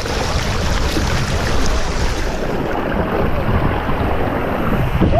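Rushing water and wind noise on the microphone of a body-worn camera during a ride down a steep water slide. The sound turns duller about halfway through.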